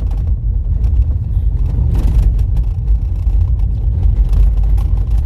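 Car driving on a rough dirt road: a steady low rumble of tyres and engine, with many small knocks and rattles throughout.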